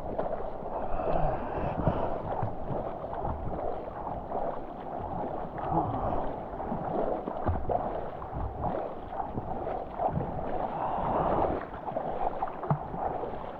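Rough seawater sloshing and splashing around a diver swimming in heavy waves, with an uneven rush that rises and falls.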